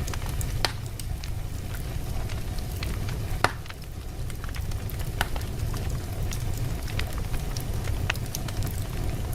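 Wood logs burning in a fireplace: a steady low rumble of flame with irregular sharp crackles and pops, the loudest pop about three and a half seconds in.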